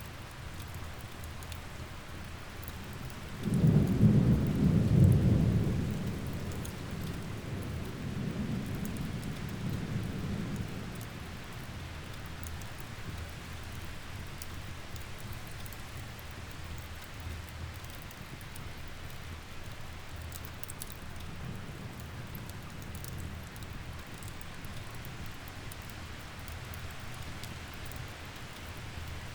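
Steady rain falling, with a roll of thunder that breaks in suddenly a few seconds in, rumbles loudest for a couple of seconds, then fades out over several more seconds.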